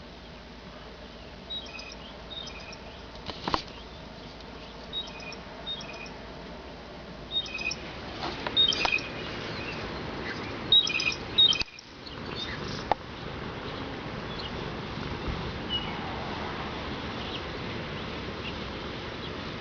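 Blue jay calling: short, high call notes in small groups of two or three, scattered through and loudest in the middle, with a few sharp clicks between them.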